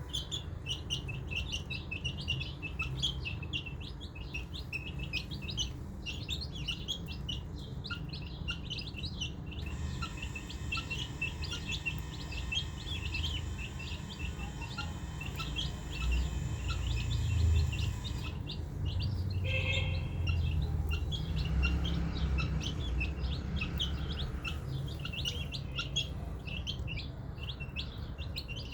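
A brood of baby chicks peeping continuously: many short, high peeps overlapping one another, over a low rumble.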